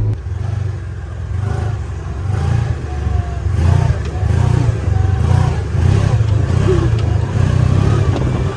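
Farm vehicle's engine running as it is driven slowly under light throttle, its low hum pulsing unevenly.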